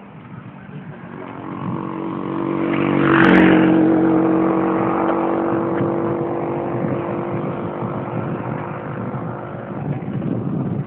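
A motor vehicle's engine passing close by. It grows louder over the first three seconds, peaks with a slight drop in pitch, then fades away slowly.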